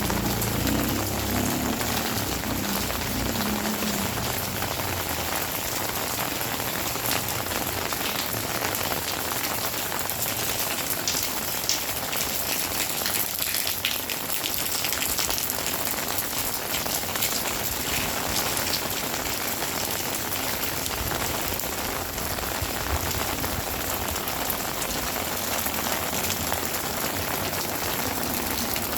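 Heavy rain falling steadily, a dense hiss of drops pattering on surfaces. A low rumble fades out over the first few seconds.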